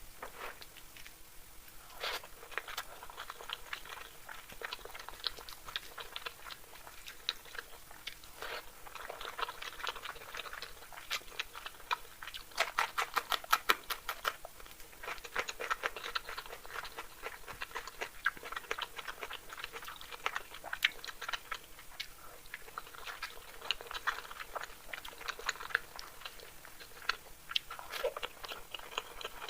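Wet chewing and mouth smacks of someone eating masala egg curry with rice: an irregular run of small clicks and smacks, busiest about halfway through.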